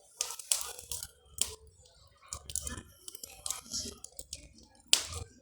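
Bonfire crackling: irregular sharp snaps and clicks with bits of hiss, and one louder crack about five seconds in.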